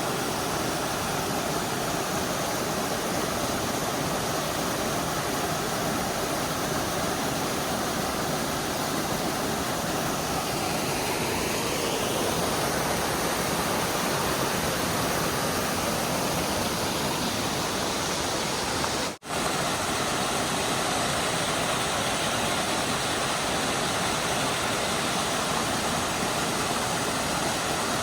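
Rushing water of a rocky mountain stream and waterfall, a steady even rush that cuts out for an instant about two-thirds of the way through.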